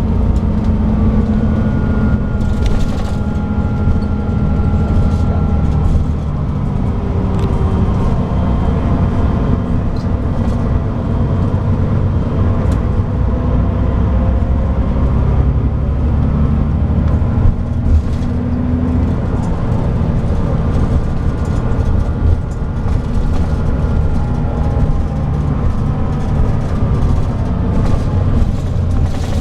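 Scania DSC9 nine-litre six-cylinder diesel of a 2007 Scania K340IB coach running under way, its pitch rising and falling slowly with speed, over heavy low road rumble. A few short knocks and rattles come through.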